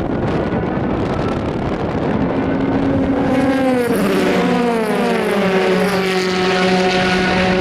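Endurance race car going past on the circuit. A rushing noise first, then its engine note comes in, drops in pitch as it passes about four seconds in, and settles into a steady drone.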